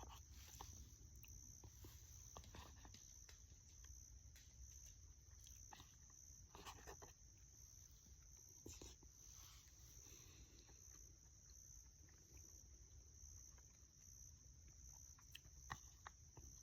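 Near silence: faint background ambience with a steady high-pitched whine and a few soft scattered clicks and rustles.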